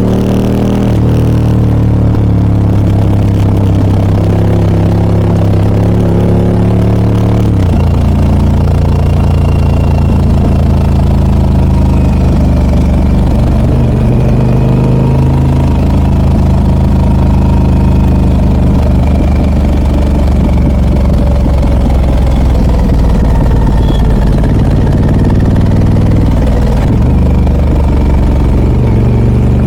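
Harley-Davidson Pan America 1250 Special's V-twin engine, fitted with a Scorpion aftermarket exhaust, running steadily. Its note shifts in pitch about seven seconds in and again near the end.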